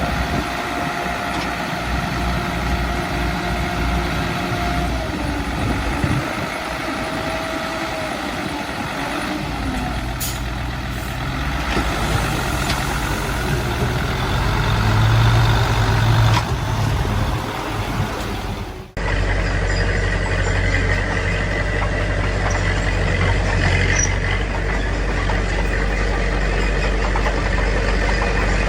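Heavy diesel earthmoving machinery running: a Komatsu D21P bulldozer and dump truck engines working steadily. About two-thirds of the way through the sound cuts abruptly and resumes with a steadier engine drone.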